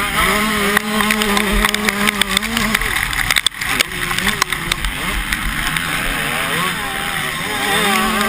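Motocross bikes' engines revving on the track, several engine notes rising and falling as the riders work the throttle and shift. There is a brief break in the sound about three and a half seconds in.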